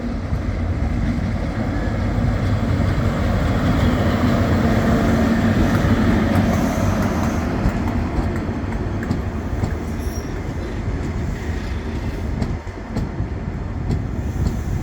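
Diesel train moving along the platform, most likely a Class 43 HST power car: its engine running over the rumble of wheels on the rails, growing louder to a peak about five seconds in, then easing off a little.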